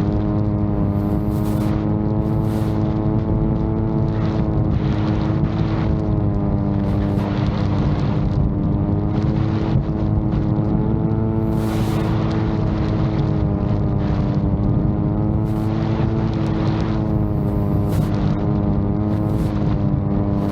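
VTOL drone's propeller motors droning steadily in flight, their pitch wavering slightly, with strong wind buffeting the microphone in gusts.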